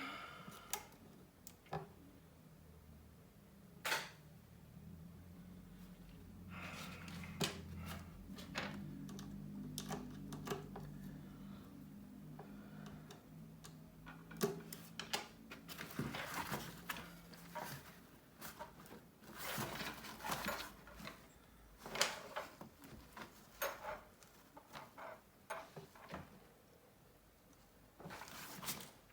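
Small clicks and taps of tools and tiny parts being handled while a smartphone is taken apart, irregular throughout with a few sharper knocks. A low steady hum runs underneath for about the middle third.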